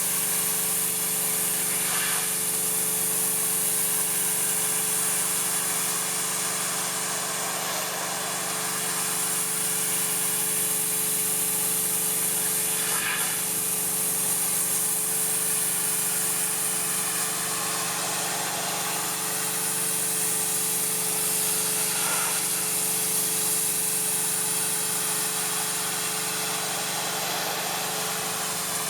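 Pressure washer running steadily: a constant motor and pump hum under the high hiss of the water jet spraying.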